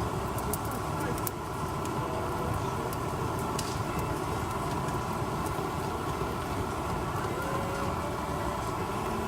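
Firewood crackling in a box wood stove, a few sharp pops over a steady low rumble, with faint distant voices.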